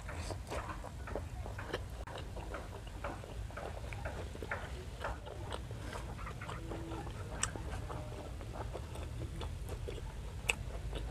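Close-up chewing of a mouthful of grilled squid: irregular wet clicks and smacks from the mouth, over a steady low hum.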